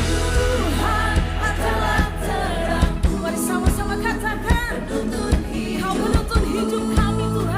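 Worship song with singing over a band: a steady bass line and regular hits from a drum kit.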